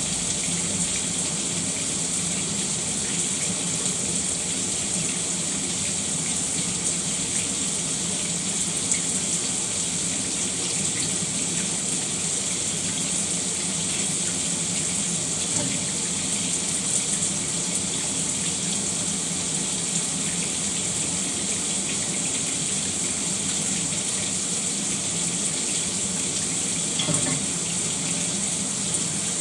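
Shower running steadily: an even hiss of water spray falling, with a few faint splashes.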